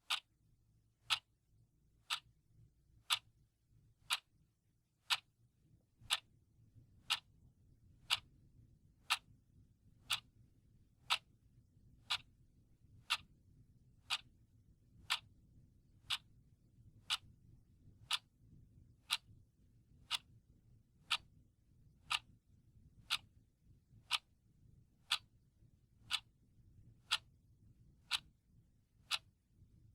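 Clock ticking steadily, one sharp tick a second, the ticks alternating slightly in loudness like a tick-tock, marking the seconds of a countdown timer.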